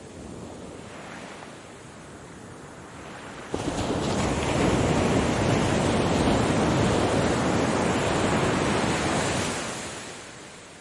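Ocean waves: a low wash of surf, then about three and a half seconds in a much louder surge of breaking water comes in suddenly, holds for about six seconds and fades away near the end.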